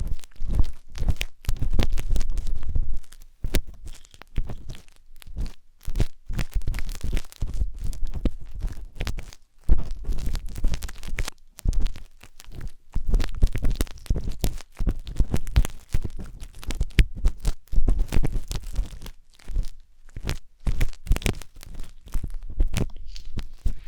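A wooden skewer scratching and rubbing inside the silicone ear of a 3Dio binaural microphone. It makes a dense, irregular run of close scraping clicks with dull low thumps.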